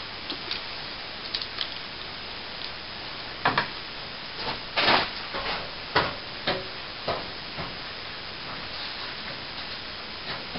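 Scattered light knocks and clicks of tools and materials being handled at a plaster ceiling, over a steady hiss, with the loudest knocks about three and a half, five and six seconds in. No drill is running.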